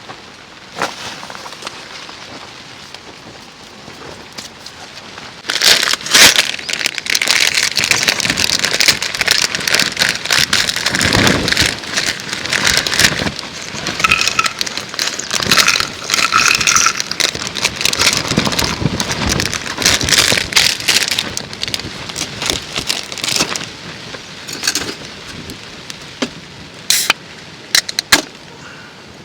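Heavy rain, driven by wind, pelting a small dome tent's fabric. About five seconds in it surges into a loud, dense crackling downpour, which eases back near the end.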